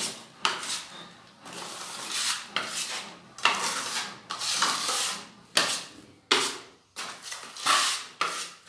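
Repeated hand scraping strokes on a wall during wall-putty finishing work: about a dozen uneven strokes, some short and some drawn out for about a second.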